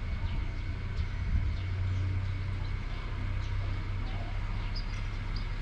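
Steady rain hiss with a continuous low wind rumble, dotted with short high chirps.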